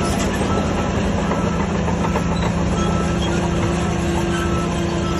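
Diesel engine of heavy earthmoving machinery running steadily, a constant low rumble with no change in pitch.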